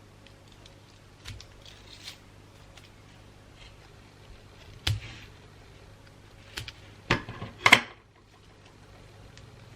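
Gift-wrapping materials being handled: a few soft paper crinkles and taps, a sharp click about halfway through, then a louder burst of crinkling paper a couple of seconds later.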